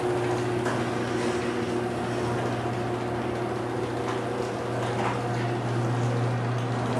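Steady low machine hum with an even hiss over it and a few faint ticks.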